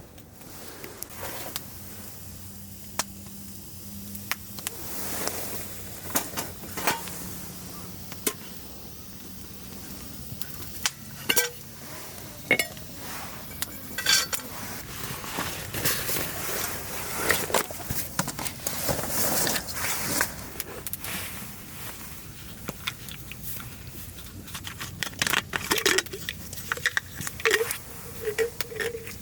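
Metal camp cookware and utensils clinking and knocking, with sharp, irregular clinks throughout and a busier clatter near the end.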